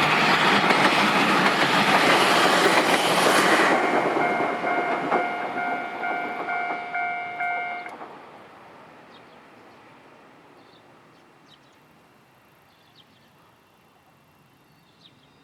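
Electric train passing over a level crossing: loud wheel-on-rail noise for the first few seconds, then dying away. Meanwhile the crossing's warning bell keeps ringing, and it stops about eight seconds in.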